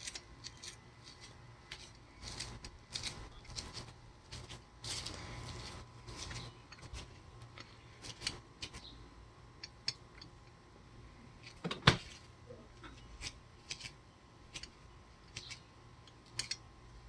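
Hand tool working the truck's bolts loose: short, irregular metal clicks, with one sharp knock about twelve seconds in.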